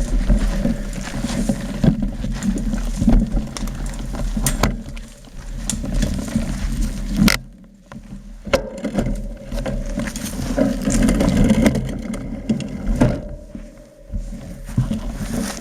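Mountain bike riding a rough trail: a heavy rumble of wind and tyre noise with many sharp knocks and rattles from the bike over the ground. It eases off briefly twice, about halfway through and near the end.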